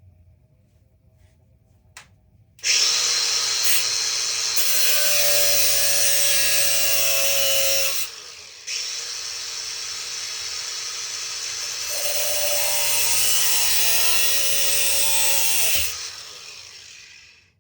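Power tool cutting a part clamped in a vise: after a click it starts about two and a half seconds in and runs steadily, drops off briefly about eight seconds in, resumes, then winds down near the end.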